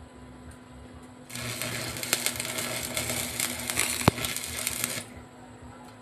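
Electric arc from an accidental short circuit, crackling loudly like a welder for about four seconds, starting about a second in, with one sharp snap near the end before it cuts off suddenly.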